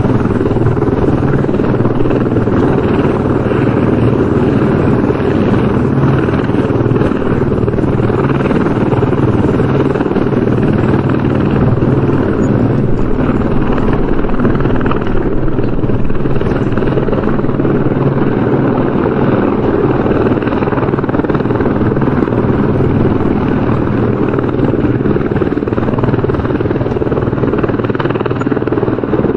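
Helicopter rotor and engine running steadily, a continuous deep rotor rumble with a faint even pulse.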